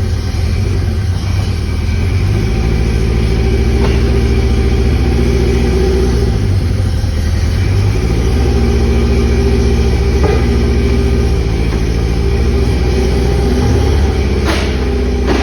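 The B16 car's engine idling after a cold start, its speed rising and falling slightly a few times. A sharp click sounds near the end.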